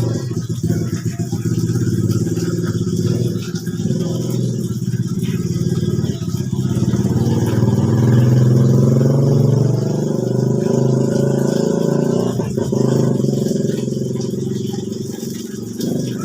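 An engine running steadily, getting louder about halfway through and then easing off.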